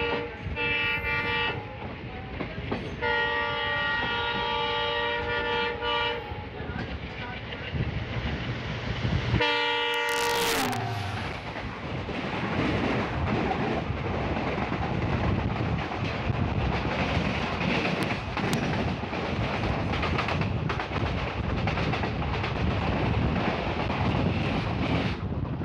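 Locomotive horn of a passing express train: two long blasts, then a third about ten seconds in whose pitch drops as the train goes by. The rushing noise and wheel clatter of its coaches passing alongside follow and continue to the end.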